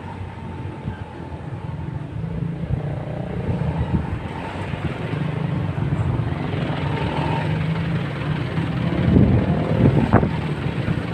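Motorcycle engine running with a steady low hum that grows louder over the first several seconds, with a few sharp knocks about nine to ten seconds in.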